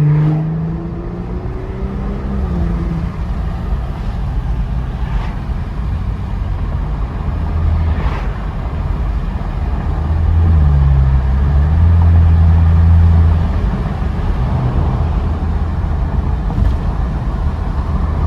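Straight-piped exhaust of a BMW F10 sedan under way, a steady low drone that shifts pitch near the start and grows louder for about three seconds past the middle as the car pulls harder. A few brief sharp pops stand out over it.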